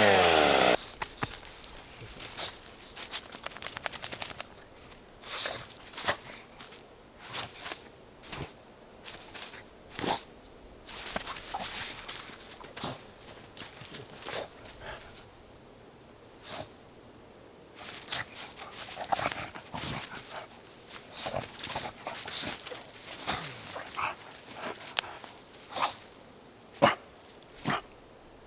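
A chainsaw shuts off right at the start. Then come irregular snaps, cracks and rustles of sticks and brush, with a dog moving about close by.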